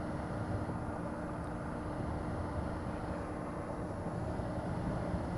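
Motorcycle running steadily while being ridden, with an even rush of wind and road noise.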